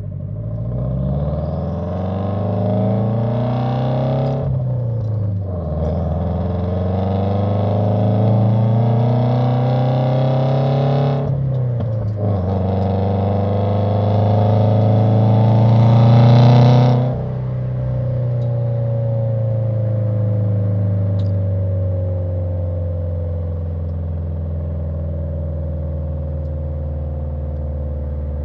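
Subaru WRX turbocharged FA20 flat-four with Tomei unequal-length headers, ETS downpipe and resonator-deleted Invidia R400 catback, accelerating through the gears: the revs climb, drop at two gear changes about four and eleven seconds in, climb again, then the throttle closes about seventeen seconds in and the revs fall slowly as the car coasts down.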